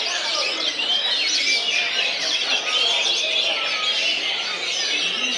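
Many caged songbirds singing at once in a dense chorus of overlapping chirps, trills and whistles, with no single song standing out.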